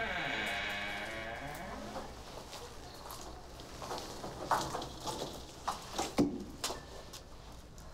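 A long wailing cry that falls in pitch and fades over about two seconds, followed by a few scattered knocks.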